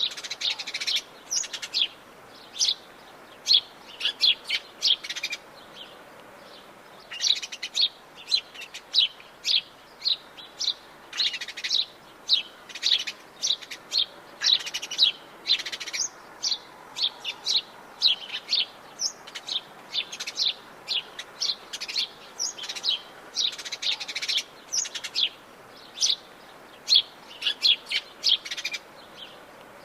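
Several forest birds chirping and calling in quick, short notes, with a brief lull about six seconds in, over a faint steady background hiss.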